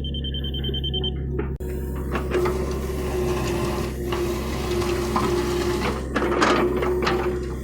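John Deere excavator working: its diesel engine runs steadily under a hydraulic whine, with irregular clanks and scrapes that are loudest about six and a half seconds in. A high steady tone sounds briefly in the first second.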